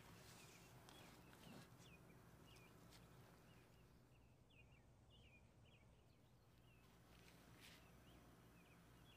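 Faint bird chirping: a string of short, high chirps repeating every half second or so over a low steady hum, with a few soft clicks.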